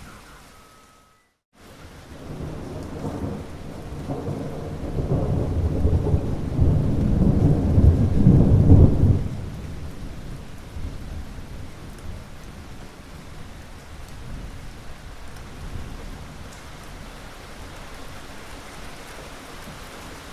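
Thunder rolling over steady rain: after a brief dropout to silence, a long low rumble builds, peaks about eight seconds in, then dies away, leaving the even hiss of rainfall.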